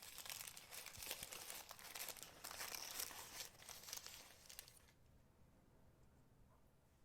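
Paper wrapping and a zip-lock plastic bag crinkling and rustling as a piece of jewelry is unwrapped by hand, stopping about five seconds in.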